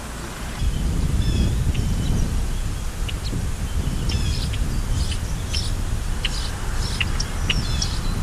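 Several small birds chirping and twittering in short calls, over a low rumble of wind on the microphone that rises about half a second in.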